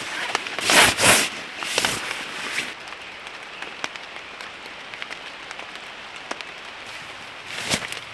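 Light rain ticking sparsely on tent or tarp fabric, with a few loud rustles, a pair about a second in, another near two seconds and one near the end.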